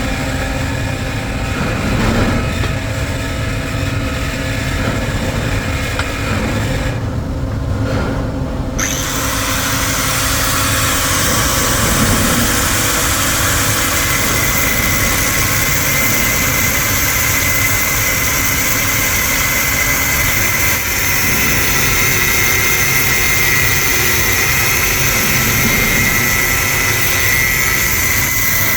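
A machine running steadily and loudly. Its hiss turns much brighter about nine seconds in, and a steady high whine joins it from about fourteen seconds.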